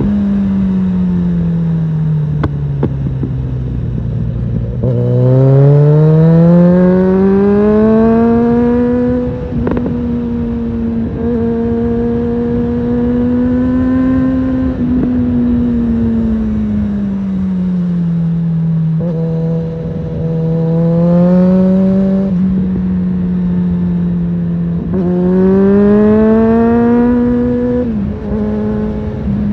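Suzuki GSF650 Bandit's inline-four engine through a Storm aftermarket exhaust, on the move. It rolls off with the note falling, then pulls up through the revs again several times, with short breaks in the note at gear changes and a steady cruise in between. Wind rush sits under it all.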